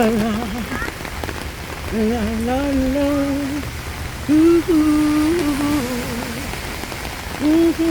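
Steady rain falling, with a woman humming a slow wordless tune over it in long, slightly wavering held notes.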